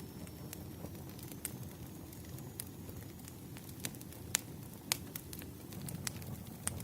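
Wood campfire crackling, with sharp irregular pops over a low steady rumble. The two loudest pops come a little past the middle.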